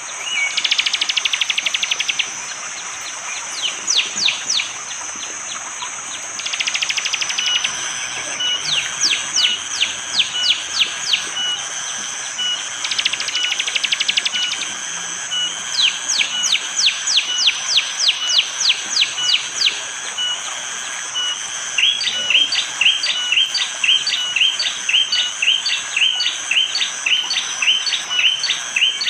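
Bar-winged prinia (prenjak jali) giving its hard, sharp calls: bursts of fast trills alternate with runs of quick sharp notes. About two-thirds of the way in, the calls settle into a steady run of about three clipped notes a second. A steady high insect drone runs underneath.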